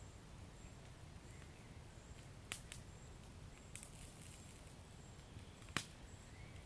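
Wood fire in a fireplace crackling softly over a low steady rumble, with a few sharp pops, the loudest near the end.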